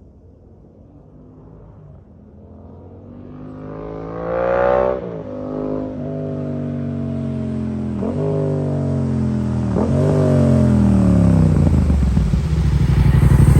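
Yamaha FZ-07's parallel-twin engine through a full exhaust, coming in from a distance and growing louder: it revs up to a peak, then drops in pitch as it slows, with two quick dips and blips that sound like downshifts. It ends close by at a low, steady rumble.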